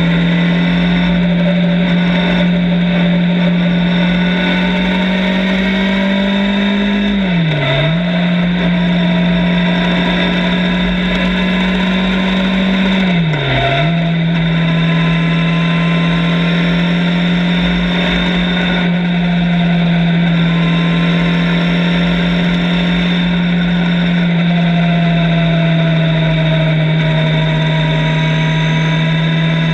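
Motorcycle engine running at a steady cruising speed while riding. The engine note drops briefly and recovers twice, then settles a little lower near the end.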